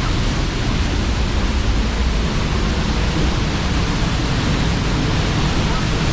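La Paz Waterfall's falling water, a loud, steady, unbroken rush with a deep low rumble.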